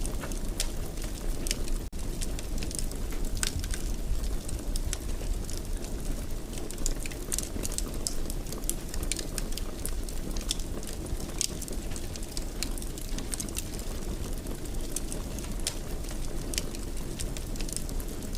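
Wood fire in a fireplace crackling, with many irregular sharp pops and snaps over a steady low rumble of flames.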